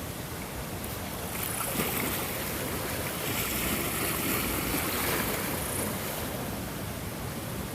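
Ocean waves on a shore: a steady hiss of surf that swells about a second and a half in and eases off again after about five seconds.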